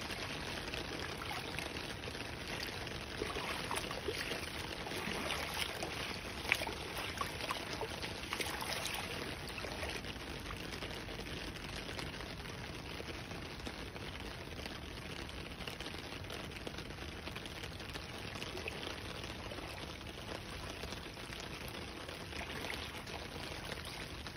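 Heavy rain pouring down and splashing onto standing floodwater: a steady wash with scattered drop hits, and one sharp tap about six and a half seconds in.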